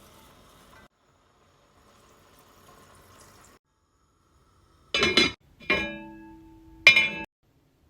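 Faint liquid sounds, then three loud clanks of kitchenware about five, six and seven seconds in, the middle one ringing on with a steady tone.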